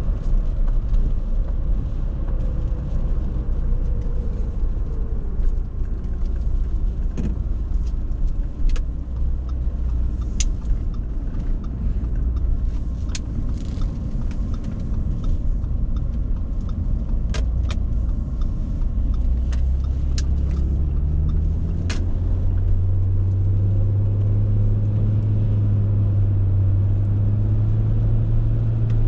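Engine and road noise from inside the cabin of a 2008 Audi A6 with its 2.4-litre petrol V6, driving: a low drone with a few sharp clicks in the middle. About two-thirds through, the engine note rises as the car pulls away, then holds a steady hum.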